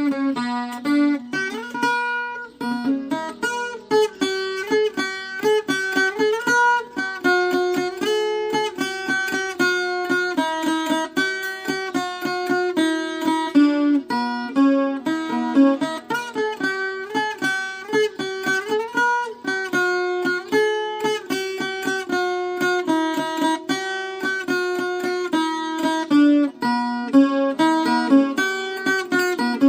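Viola caipira, the Brazilian ten-string folk guitar, playing an instrumental tune: a steady run of plucked melody notes over repeated lower notes.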